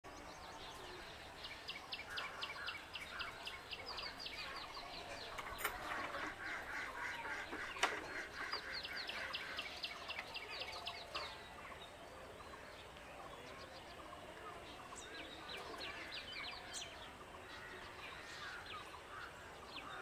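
Birds calling outdoors: quick runs of short, high chirps, several a second, in a long stretch and then a shorter one later on, with a couple of sharp clicks in between.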